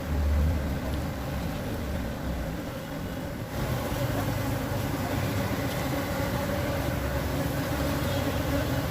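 Asian honey bees (Apis cerana) buzzing in a steady, dense hum from an opened hive, with a low bump near the start.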